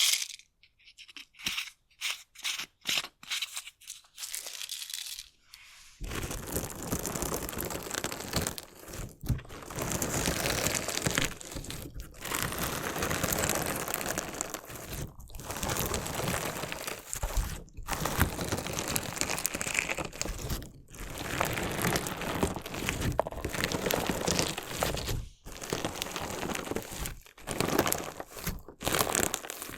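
Crunchy slime mixed with small decorative stones being worked close to the microphone, crackling and grinding. A few faint scattered crackles for the first several seconds, then about six seconds in a dense, continuous crunching crackle broken by brief pauses.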